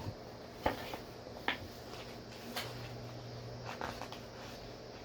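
A few soft taps and clicks over quiet room tone, about one a second, with a faint low hum in the middle.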